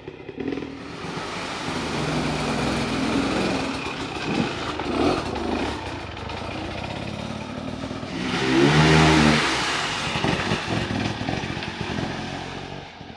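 Dirt bike engine on a trail, its pitch rising and falling with the throttle, with a hard rev about eight seconds in that is the loudest part.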